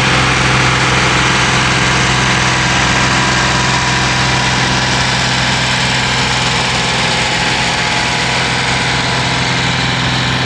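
Pulling tractor's engine idling steadily with a constant low hum.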